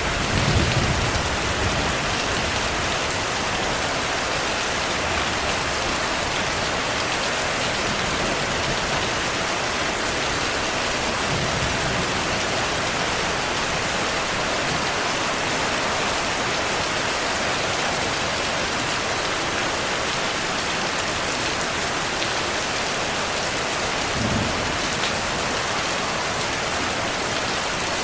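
Steady heavy rainfall with low thunder rumbles: one just after the start, a fainter one about eleven seconds in, and a short one near the end.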